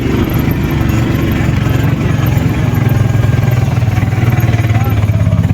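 A vehicle engine running steadily, with a rapid, even pulse.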